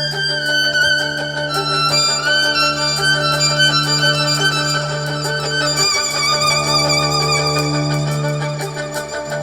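Live instrumental band music: a melody with vibrato over a steady held low note.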